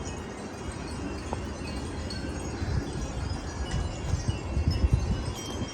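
Wind chimes tinkling in gusty wind, scattered high ringing notes over a low, uneven wind rumble.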